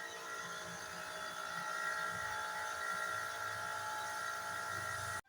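Steady mechanical whine of a small electric motor holding several fixed pitches, growing slightly louder, then cutting off suddenly near the end.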